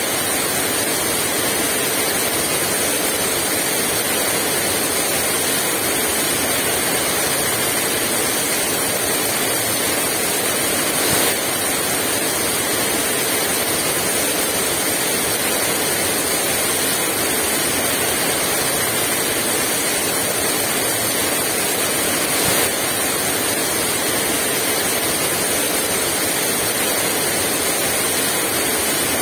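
Heavy rain pouring steadily, a dense, even hiss with no wind.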